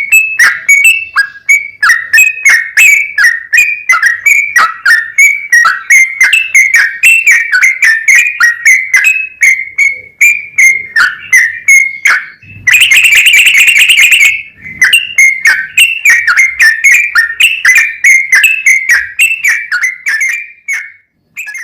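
Yellow-vented bulbul singing a long, rapid, continuous run of short whistled notes, about three a second. A harsh, noisy chatter breaks in for under two seconds about two-thirds of the way through.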